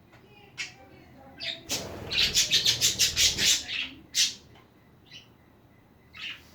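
Pet budgerigars chirping: a few short high chirps, then a loud run of rapid, harsh chattering for about two seconds, and one more sharp chirp after it.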